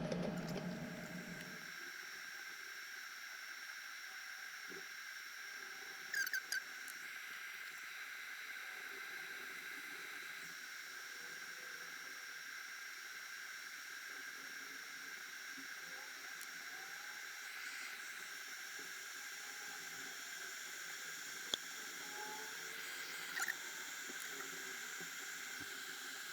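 Electric kettle heating water toward a boil: a faint steady hiss with a thin high whine, broken by a few brief small squeaks about six seconds in and near the end, and a single click.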